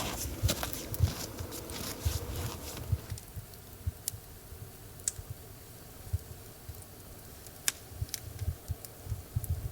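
Larch-wood campfire crackling. There is a low rumble and dense crackling for the first three seconds, then single sharp pops every second or two.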